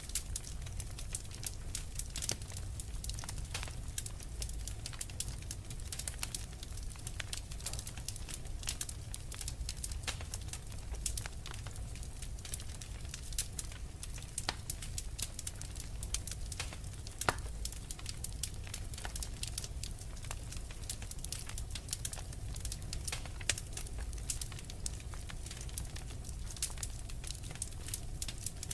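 Wood fire crackling in a fireplace: many sharp pops and snaps over a steady low rumble, with one louder pop about seventeen seconds in.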